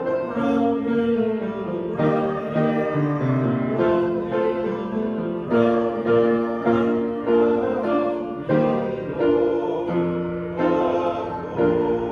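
Hymn music played on keyboard, with voices singing along and notes changing at a steady beat.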